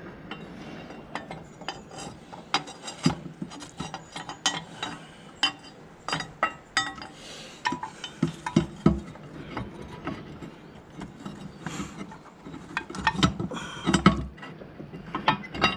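Irregular metallic clinks and taps as steel brake linkage parts and tools are handled and worked into place by hand, with a busier cluster of knocks near the end.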